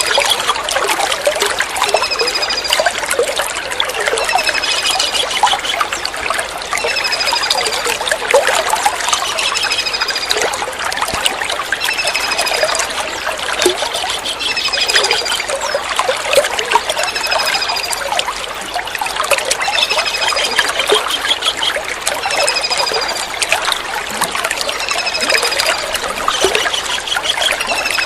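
Tengkek udang kingfisher calling over and over: short, high, falling whistled notes about once a second, with an occasional quick trill. Under them runs steady trickling water.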